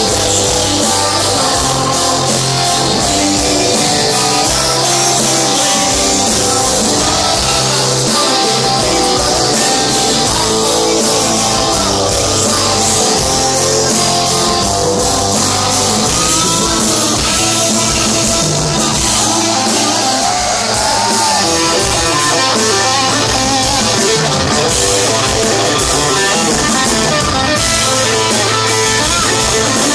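Live rock band playing a song, led by guitars over a drum kit, at a steady loud level throughout.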